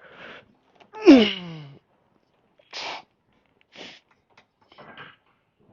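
A man breathing hard through a set of seated cable rows, with short forceful exhales roughly once a second. About a second in comes one loud grunt that falls steeply in pitch.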